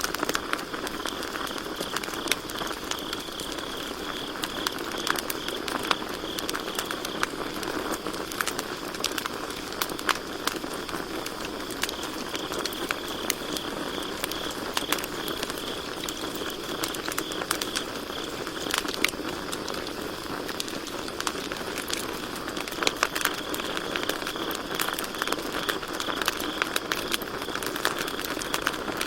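Campfire crackling and popping, with many irregular sharp snaps over a low steady hiss of burning wood. Behind it, crickets chirp steadily in a high continuous band that swells and fades.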